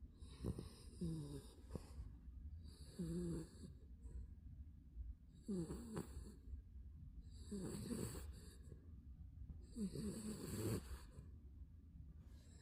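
Spitz puppy snoring in its sleep: five snores, about one every two seconds, each with a wavering pitch.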